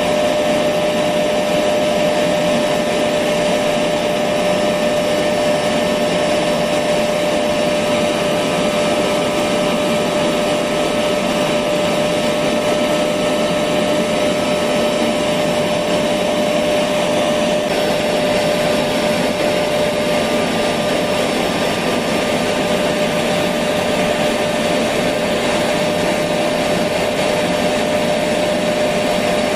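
Electric vacuum cleaner running continuously: a steady rushing motor noise with a constant mid-pitched whine. The upper part of its sound shifts slightly a little over halfway through.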